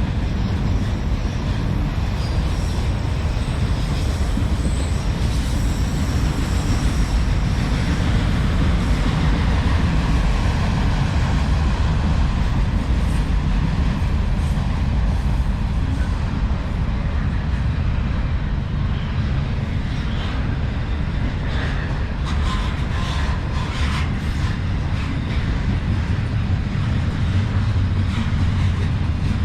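Long autorack and intermodal freight train rolling past: a steady rumble of wheels on rail, with a brief squeal and some clicking about two-thirds of the way through.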